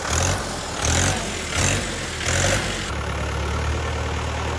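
Tractor engine running, swelling louder with a burst of hiss about every three-quarters of a second for the first three seconds, then running steadily.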